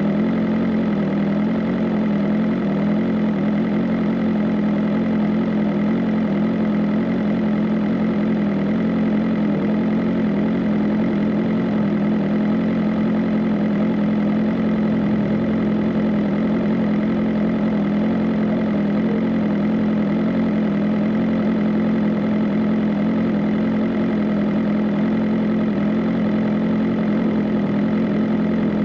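BMW M 1000 RR's inline-four engine idling steadily at constant revs, with no blips of the throttle.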